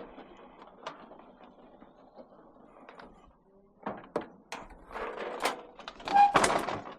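Knocks and clatter from scrap being handled: a few light clicks at first, then a run of knocks from about four seconds in that builds to a loud clatter near the end.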